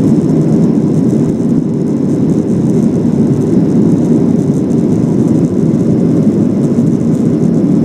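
Boeing 737 jet engines and rushing air during the climb after takeoff: a loud, steady low rumble.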